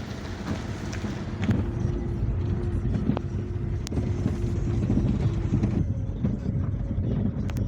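Taxi driving along a road: steady engine and road rumble with a faint hum whose pitch shifts about six seconds in, and a few light clicks and knocks.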